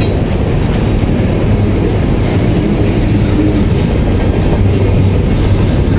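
A freight train's cars rolling past close by: a steady, loud noise of wheels on rail, heaviest low in pitch.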